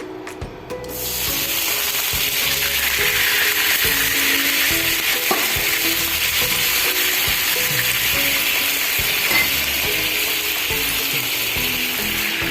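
Food sizzling in hot oil in a pan, starting suddenly about a second in and holding steady, over background music.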